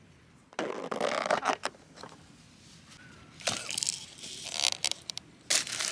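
Plastic packaging crinkling and rustling in several bursts, with small sharp clicks, as food packaging is handled and opened.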